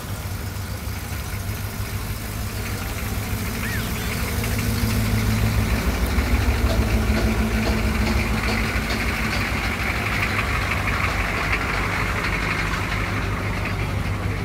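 Car engine idling with a steady low rumble, growing louder for a few seconds in the middle and then easing off.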